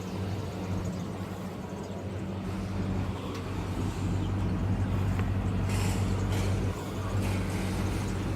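Steady low hum of an idling vehicle engine, with a brief hiss about six seconds in.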